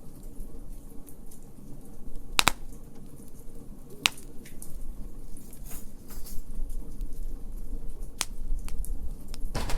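Wood fire crackling in a fire pit: scattered small crackles over a low steady rumble, with four louder sharp pops spread through.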